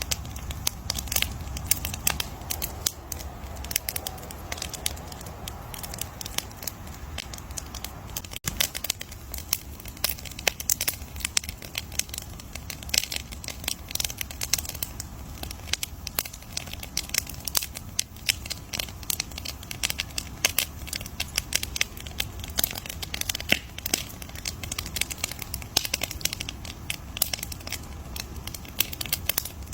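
Wood campfire crackling: dense, irregular snaps and pops over a steady low rumble of the flames, with a momentary break about eight seconds in.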